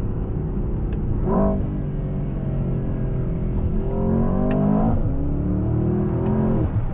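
Mercedes-AMG S63's twin-turbo V8 pulling through the gears: a quick rev flare about a second in, then the revs climb and drop at an upshift about five seconds in, climb again and drop at another shift near the end.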